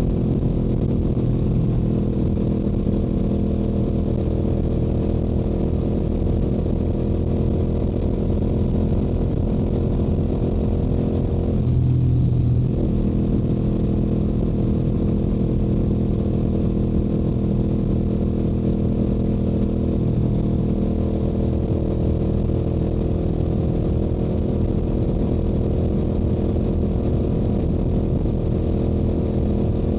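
Stock Yamaha YZF-R7's 689 cc parallel-twin engine and exhaust running steadily at highway cruising speed. About twelve seconds in, the engine note dips briefly in pitch and then settles back to the same steady drone.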